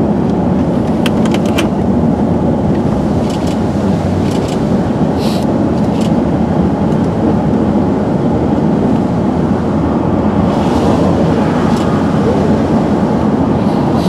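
Steady vehicle noise inside the storm-chase van: a continuous engine and road rumble, with a few faint clicks.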